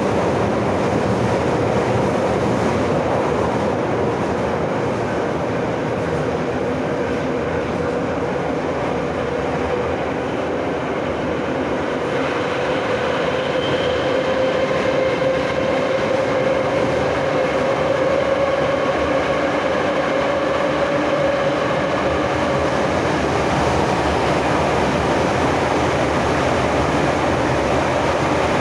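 Moscow Metro 'Nomernoy' (81-717/714) subway car running between stations: a steady rumble of wheels and track with a traction-motor whine that rises slightly and grows louder about halfway through.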